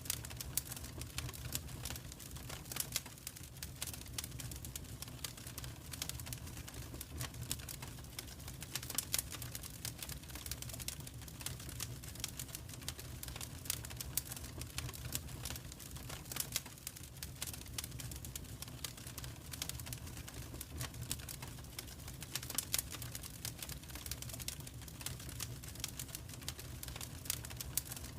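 Wood fire in a fireplace crackling: a dense, irregular run of small pops and snaps over a steady low rumble.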